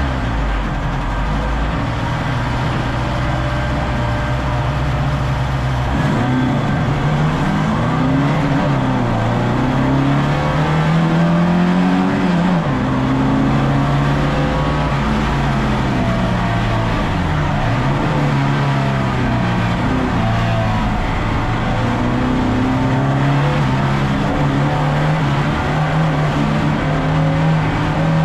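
VAZ 2101's inline-four engine under racing load: an even note for the first few seconds, then the pitch repeatedly climbs and drops sharply as it revs up and comes off the throttle or shifts.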